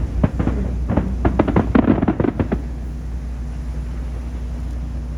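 Aerial fireworks display: a rapid, dense run of crackling bursts and pops for the first two and a half seconds, then a steadier low rumble.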